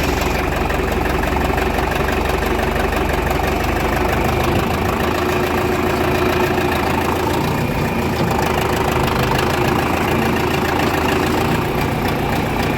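Large engine idling steadily; its deepest rumble thins about four and a half seconds in.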